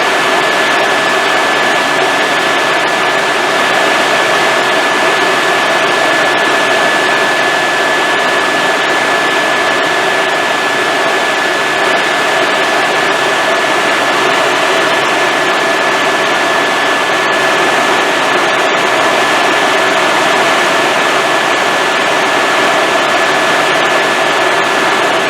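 Helicopter in flight, heard from inside the cabin: a loud, steady rush of turbine and rotor noise with a constant high whine over it.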